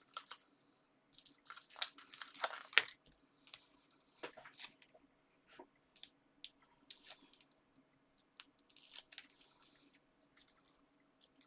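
Adhesive foam pads being peeled from their backing sheet and stuck onto paper card: irregular crinkly rustles and small clicks, busiest a couple of seconds in.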